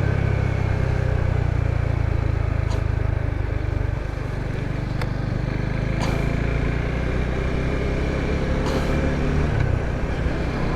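Suzuki Gixxer 250's single-cylinder engine running steadily under way, its note easing briefly about four seconds in before picking up again.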